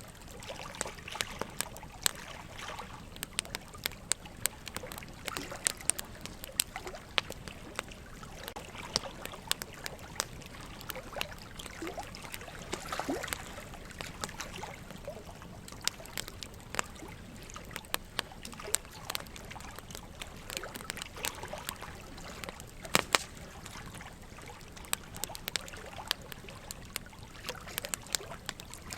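Wood logs burning in a fireplace, crackling with frequent sharp pops and snaps, over a steady trickle of running water.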